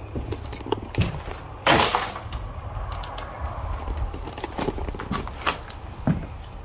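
Scattered footsteps, knocks and creaks on an old, debris-strewn house floor, with one louder, longer crunching impact nearly two seconds in.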